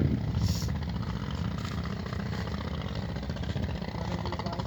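A small engine running steadily at a low, even pace.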